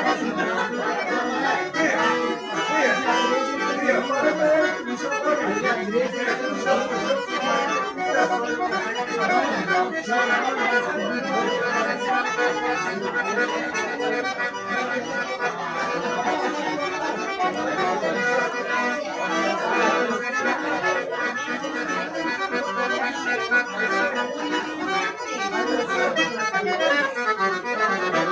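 Accordion music playing without a break, dense with quick notes, with some voices under it.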